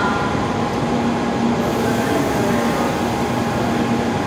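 Steady hum and rush of an N700A Shinkansen train standing at the platform, with faint steady tones in it.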